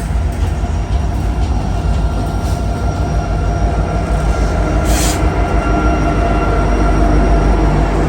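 Train rolling past with a heavy steady rumble. A thin squeal of wheels on the rails runs through the middle, and there is a short hiss about five seconds in.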